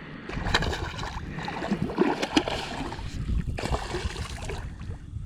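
Water sloshing and splashing, with scattered short splashes, as a hooked catfish is fought in the water.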